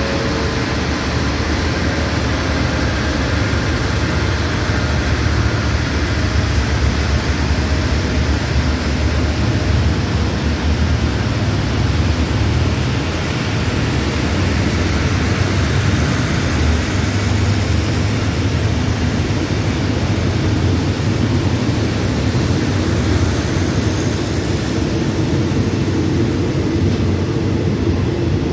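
Passenger train's coaches rolling slowly along the platform, a steady rumble and rush of wheels on the rails.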